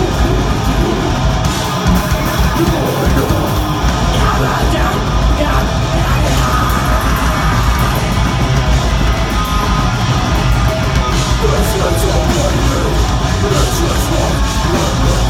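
A live deathgrind band playing at full volume: distorted guitars, bass and fast, dense drumming under harsh screamed vocals.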